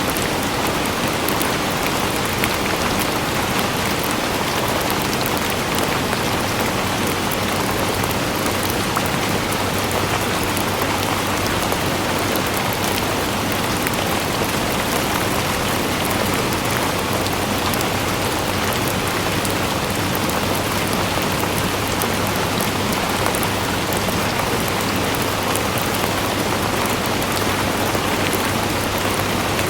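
Steady rain falling on a surface: a constant hiss with many fine patters of individual drops, unchanging throughout, with a faint low hum beneath.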